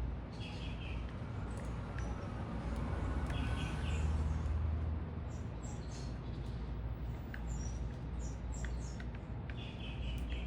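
Small birds at a feeder chirping over a steady low city rumble. A short phrase of several quick notes comes three times, and many brief high chirps fall in the second half.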